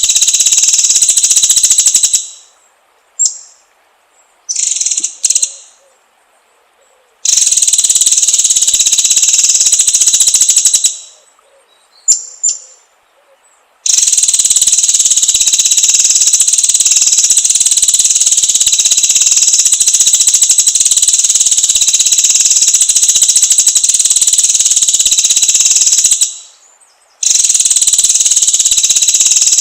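A high, rapid buzzing trill in long bouts of several seconds each; every bout starts abruptly and fades away. In the gaps come a few short, high chirps.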